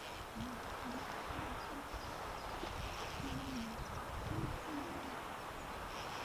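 A series of short, low-pitched bird calls, some rising slightly, spaced irregularly over a steady background hiss of wind and water.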